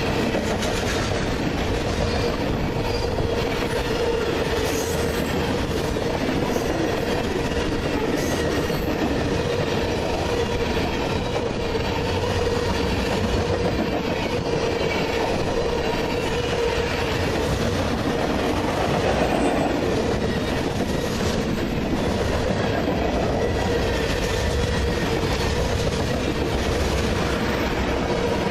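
Freight train cars rolling past at about 40 mph: a steady rumble of steel wheels on rail with clicking over the rail joints and a steady high squeal from the wheels.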